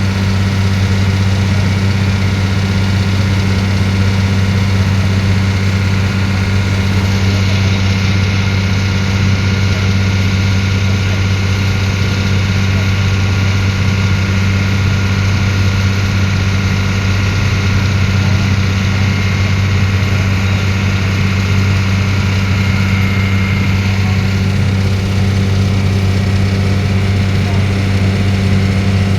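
A ferry boat's engine running with a steady low hum, its pitch unchanging throughout.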